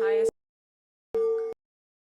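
A steady held tone chopped into short pieces, about one every second and a quarter, with dead silence between them: the stream's audio cutting in and out.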